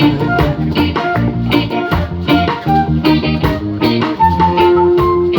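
Live reggae band playing a short instrumental passage between sung lines, with electric guitar, bass guitar and drum kit in a steady rhythm.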